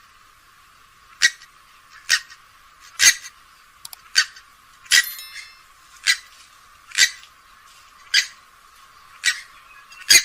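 Grey-headed swamphen giving short, harsh calls at a regular pace of about one a second, about ten in all, with a few thin high whistled notes about halfway through.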